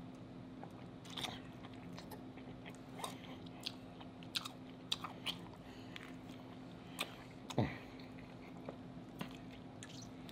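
A person biting and chewing butter-sauced lobster tail meat. It comes as soft, scattered mouth clicks and smacks, roughly one a second.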